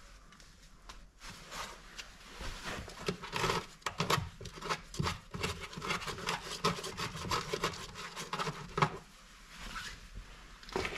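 Plastic interior trim panel in a car's boot being pried and worked loose by hand: irregular scraping, rubbing and clicking, starting about a second and a half in and easing off near the end.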